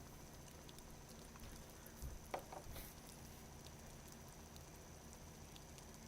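Faint steady hum of a small 9-volt DC motor driving the water circulation in a 3D-printed jellyfish kreisel tank, with faint water noise and a single sharp click a little over two seconds in.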